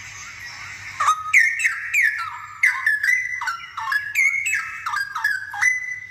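Straw-headed bulbul (cucak rowo) singing: a fast run of loud, clear whistled notes, most of them dropping in pitch, beginning about a second in.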